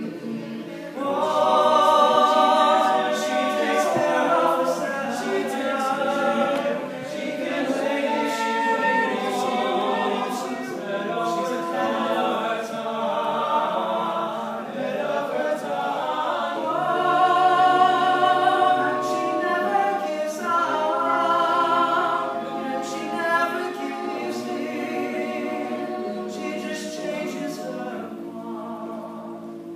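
Male a cappella group singing in close harmony with no instruments. Full chords swell about a second in and again midway, then taper off near the end.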